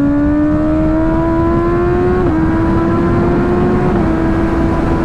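Motorcycle engine running under power while riding, its pitch climbing slowly with brief small dips about two and four seconds in, over a steady rushing noise.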